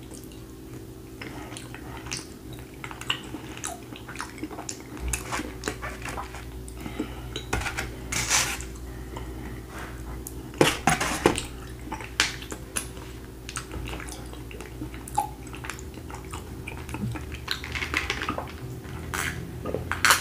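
Close-miked eating: chewing and mouth sounds over baked beans and a grilled beef rib, with a metal fork clicking against a foam takeout container. A low steady hum runs underneath.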